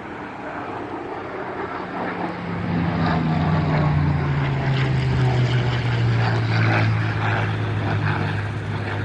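A WWII-era propeller-driven warplane flying past. Its engine drone swells to a peak a few seconds in, then drops in pitch as the aircraft passes and moves away.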